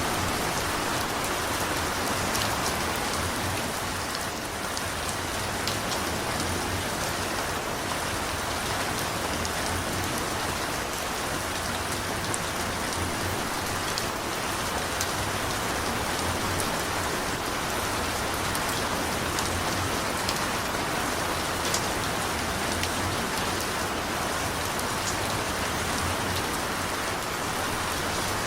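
Steady rain falling, an even hiss with scattered sharp drops striking a surface.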